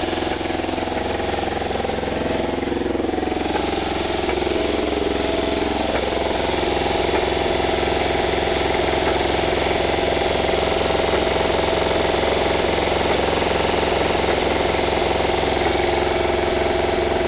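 Volkswagen Baja Bug's air-cooled flat-four engine idling. Its speed wavers for the first few seconds, then settles into a steady idle.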